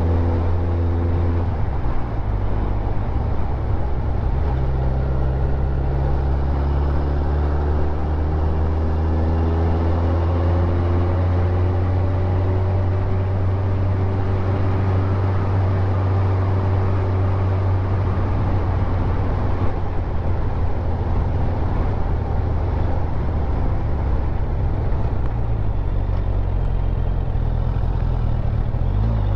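Motorcycle engine running as the bike is ridden along, heard close up from a camera on the tank bag. The engine pitch shifts and glides a few times, notably about two and five seconds in.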